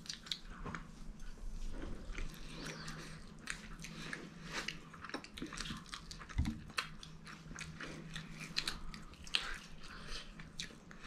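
Close-up chewing and biting into crispy fried chicken, with many small crunches and crackles as the coating breaks between the teeth. A single low thump about six and a half seconds in is the loudest moment.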